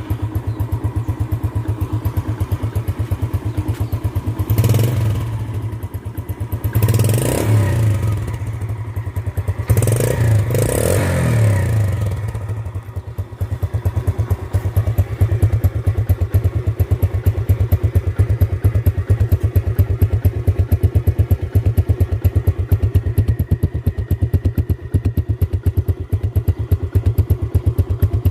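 2008 Yamaha Jupiter Z underbone motorcycle's single-cylinder four-stroke engine running just after starting. It is revved briefly three times in the first dozen seconds, then settles to a steady idle.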